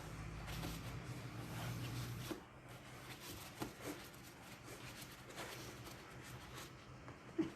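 A latex glove being blown up like a balloon: a breathy blow for about two seconds, then faint squeaks, clicks and rustles as the rubber is handled.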